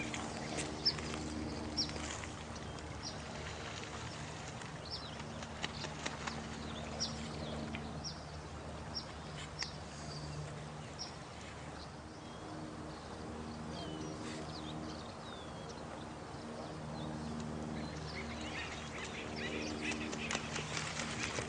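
Night nature ambience: a steady wash of running water, with short high chirps repeating about once a second and low, drawn-out animal calls fading in and out.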